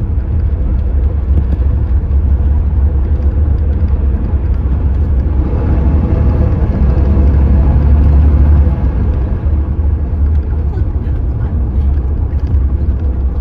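CNG engine of a Hyundai New Super Aero City city bus running under load with a deep rumble. It builds louder from about halfway through and then drops off sharply near the two-thirds mark, as at a gear change after revving high.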